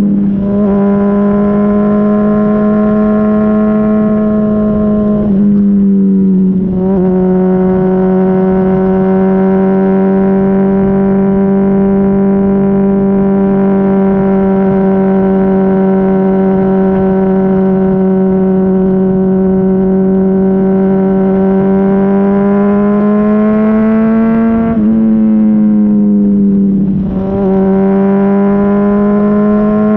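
Honda CBR600RR's inline-four engine through a Yoshimura RS-5 exhaust, heard close up at the muffler while riding, holding a steady note at cruising revs. The pitch steps and the sound dips briefly about five seconds in and again around twenty-five seconds.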